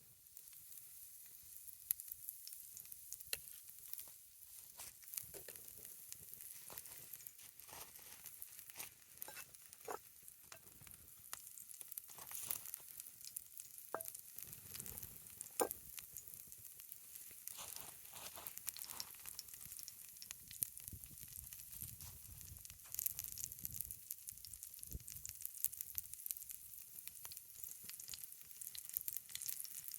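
Pancakes frying in an oiled cast iron skillet over a campfire: a steady sizzle with scattered sharp pops and crackles.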